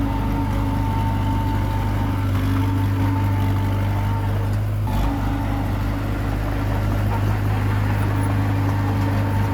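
Komatsu D21P bulldozer's diesel engine running steadily, with a brief break in the sound about five seconds in.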